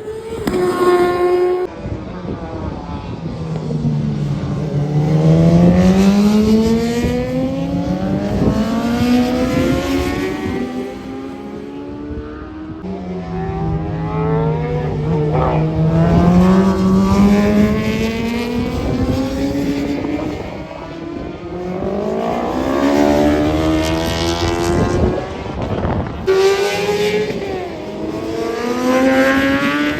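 Racing motorcycles passing at full throttle, several engines at once, each climbing in pitch and dropping sharply at gear changes, in waves as groups of bikes come by.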